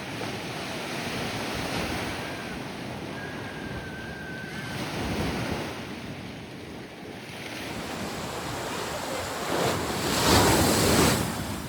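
Ocean surf washing onto the beach, with wind buffeting the microphone; a wave breaks loudest about ten seconds in.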